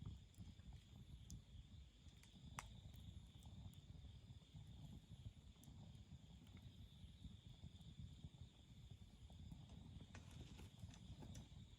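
Faint wood campfire burning: a soft low flutter of flames with scattered crackles and pops, one sharp pop about two and a half seconds in and a cluster of crackles near the end.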